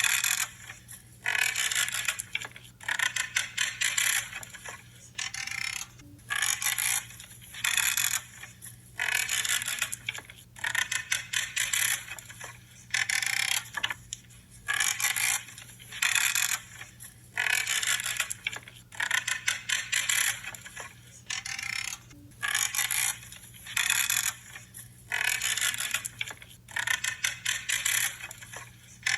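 Branches being trimmed, one cut after another, each cut giving a short crackling creak of wood about once a second.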